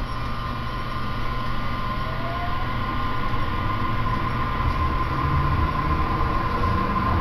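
Running noise of a moving train heard from inside the passenger carriage: a steady low rumble with a constant high whine over it.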